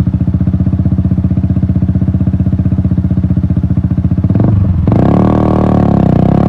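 Yamaha MT-125's single-cylinder engine through an Akrapovic exhaust, idling with a steady throbbing beat. About four and a half seconds in it revs up and gets louder, the pitch dipping and climbing again as the bike pulls away.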